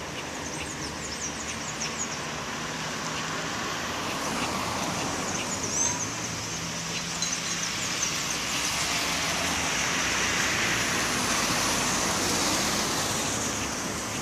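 Road traffic passing, a steady rush that swells and then eases near the end. Short high calls from a house wren are scattered through it, mostly in the first couple of seconds and again about halfway.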